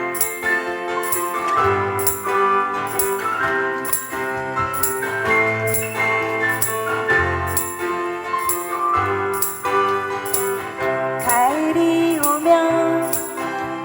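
Instrumental break of a live pop ballad: sustained keyboard chords over an even beat, with a jingling tambourine-like shake about twice a second.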